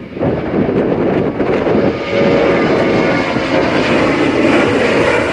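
Boeing 737-800's CFM56 turbofan engines at takeoff power, a loud steady jet rush with a faint whine, rising sharply at the start and then holding.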